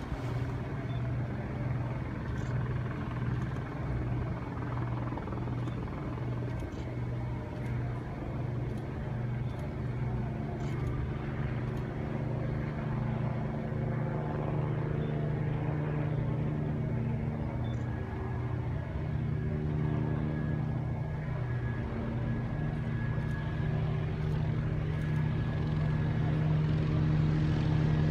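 Helicopter approaching: a steady engine and rotor drone with a pulsing low hum, slowly growing louder toward the end.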